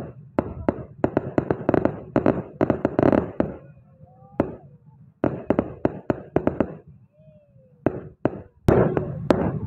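Fireworks going off overhead: clusters of sharp bangs and crackles in quick succession, with two short lulls, then dense bursts again near the end.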